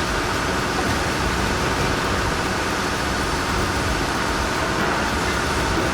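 Heavy machinery running: a steady, dense diesel-engine rumble with mechanical noise that holds even throughout.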